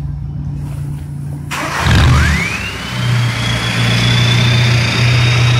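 Volkswagen Jetta TDI turbodiesel idling, then revved hard about a second and a half in and held at raised revs. The turbocharger whistle rises quickly in pitch and then holds as a steady high whine over the engine's rushing roar.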